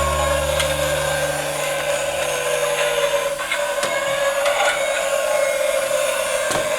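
Steady whirring of a small motor, with a few light clicks. A low sustained note fades out in the first few seconds.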